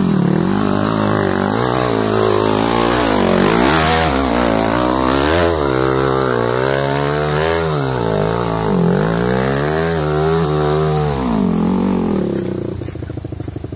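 Motorcycle engine revving up and down again and again, straining under load on a climb, its pitch rising and falling every second or so. Near the end it eases off to a lower, pulsing note.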